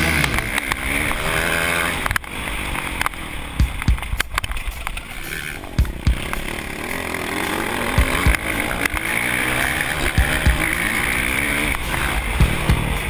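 Motocross bike engine revving, its pitch rising and falling as the throttle opens and closes, with occasional short low thumps.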